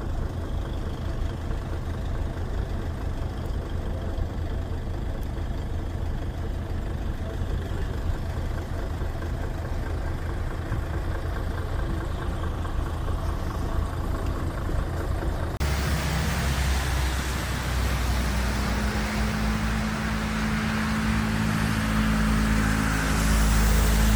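Vehicle engine running with a steady low rumble. About two-thirds of the way through, the sound switches abruptly to a louder, even hiss over a deep engine drone, like wind blowing on the microphone.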